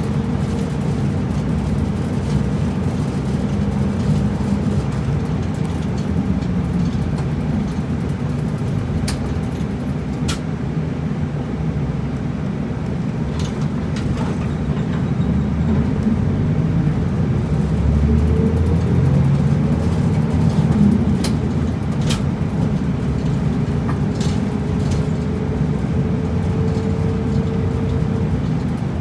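Route bus driving along, heard from inside the cabin: steady engine and road noise with a faint whine that rises and falls in pitch, and a few sharp clicks or rattles.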